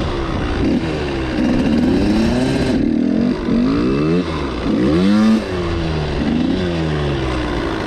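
Suzuki RM85's single-cylinder two-stroke engine revving hard under full throttle for a wheelie run, its pitch climbing and dropping several times as the throttle is opened and backed off through the gears.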